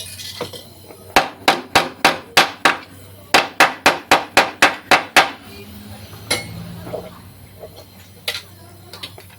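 Hammer blows during car repair work: a run of about six quick, even strikes, a short pause, then about eight more, followed by a couple of single knocks near the end.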